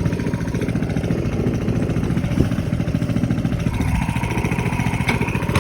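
Minibike's small engine running with a rapid, even putter, the level holding steady.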